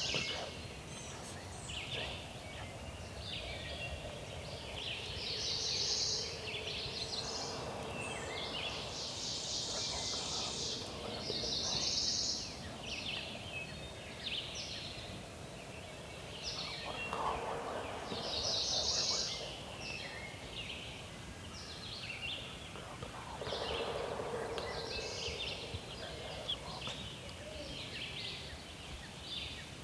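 Wild turkey gobbling three times, each gobble a rattling call about a second or two long, several seconds apart. Songbirds sing high, fast trills between and over the gobbles.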